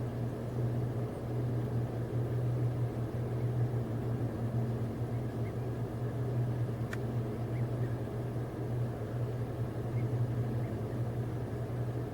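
Car engine running with a steady low hum. There is a single sharp click about seven seconds in.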